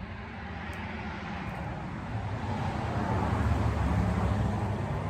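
A passing road vehicle: a steady rumble and tyre noise that swells to its loudest about four seconds in, then begins to fade.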